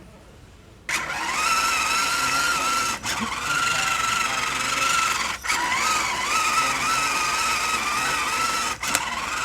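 RC rock-crawler truck's electric motor and gears whining steadily under throttle, starting suddenly about a second in. The whine wavers in pitch and cuts out briefly three times as the throttle is let off.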